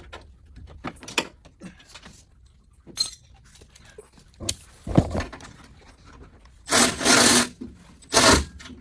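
Scattered clicks and light rubbing of parts being handled, a sharp knock about five seconds in, then two loud scraping rasps near the end, the first about a second long and the second shorter.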